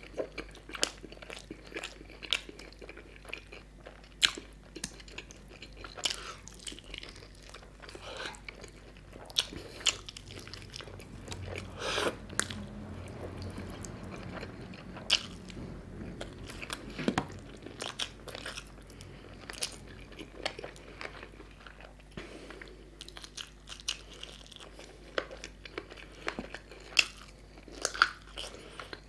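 A man chewing and biting chicken curry and puri, close to the microphone: irregular sharp mouth clicks and bites throughout, busier about twelve and seventeen seconds in.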